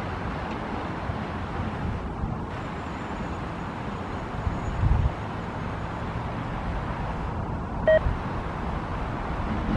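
Freight train rolling away along the tracks: a steady low rumble of wheels on rail. A brief low thump about five seconds in, and a short beep near the end.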